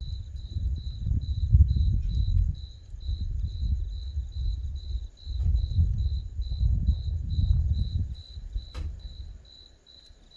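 A cricket chirping steadily at about three pulses a second, over a loud low rumble of thunder that swells and fades in long rolls. A single sharp click comes near the end.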